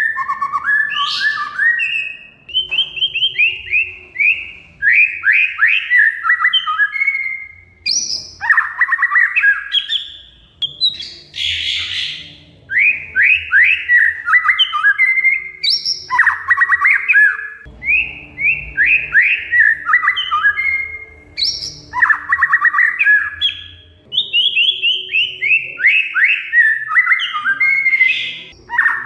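Oriental magpie-robin (kacer) singing in loud, fast chattering phrases, each a quick run of sharp repeated notes lasting a second or two, with short pauses between them and a few higher whistled notes mixed in.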